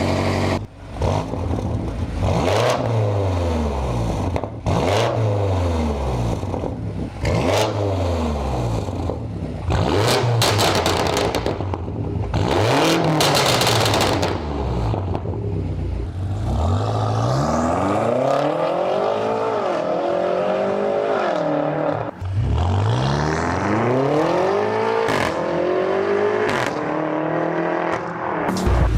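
BMW F90 M5's twin-turbo V8 revved repeatedly through an aftermarket exhaust, each rev climbing and falling back, with sharp crackling pops on some lifts of the throttle; the revs grow longer and higher in the second half.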